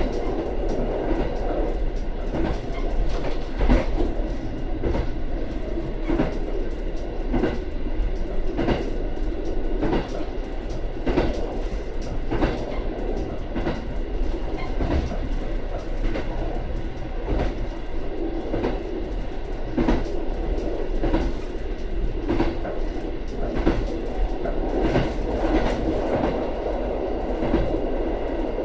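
Diesel railcar running along snowy track, heard from inside its rear cab: a steady running rumble with repeated clicks and knocks as the wheels pass over rail joints.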